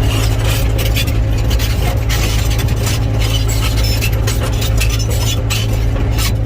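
Heavy-equipment diesel engine running steadily at an even pitch, with scattered light clinks and knocks of metal and stone.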